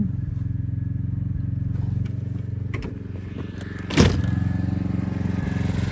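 Portable generator's small engine running steadily, with a sudden loud clunk about four seconds in.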